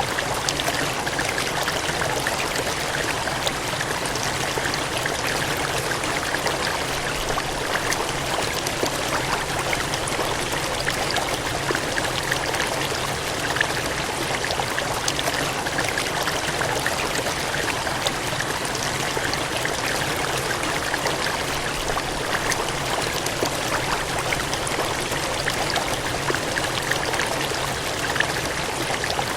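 Gushing, cascading water in a steady, even rush, with small splashes flickering through it.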